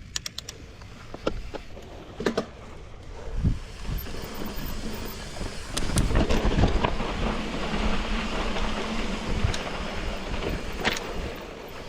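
Bicycle being ridden on a rough dirt trail: tyre rumble and frame rattle with wind rushing over the microphone, building up about four seconds in and loudest in the middle. A few sharp knocks come in the first few seconds.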